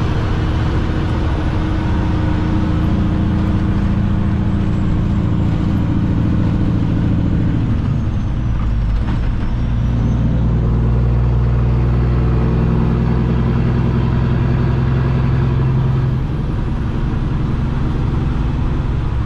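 Diesel engine of an empty Peterbilt semi truck running under way, heard from inside the cab, with a VGT turbo. The engine note dips and shifts about eight to ten seconds in, then runs stronger and eases slightly near the end.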